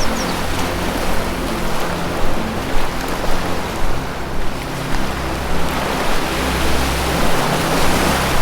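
Ocean surf washing ashore in slow swells, over low sustained tones of ambient music.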